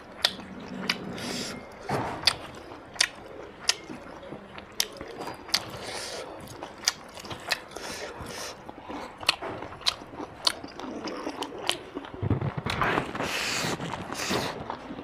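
Close-miked chewing and lip-smacking of someone eating rice and mutton curry by hand, a steady run of sharp wet mouth clicks, a little more than one a second.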